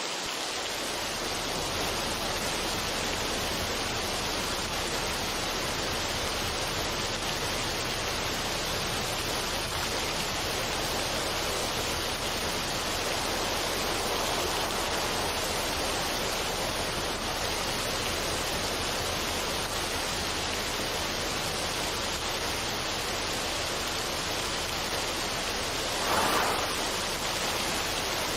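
Steady rushing noise with no melody, like a waterfall or fast stream, swelling briefly about 26 seconds in.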